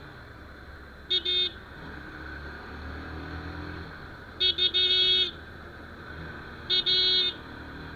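A vehicle horn honking in three groups of short toots: two quick ones about a second in, three around the middle with the last held for about half a second, and two more near the end. Under them runs steady traffic and engine noise.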